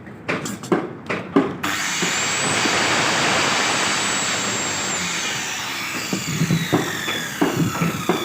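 Handheld electric power tool cutting wood: it starts abruptly with a high whine and a loud cutting noise, runs for a few seconds, then winds down with the whine falling in pitch. Sharp knocks and taps come just before it starts and again near the end.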